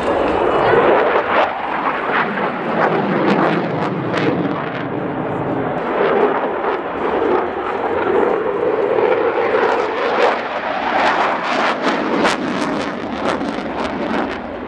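Military jet aircraft engine, loud and continuous, with many sharp crackles, more of them in the second half.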